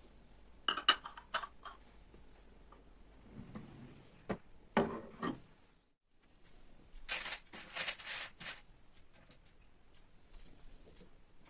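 Light clinks, taps and knocks of tableware being handled, in short irregular clusters with soft rustling between them. The sound cuts out briefly about six seconds in.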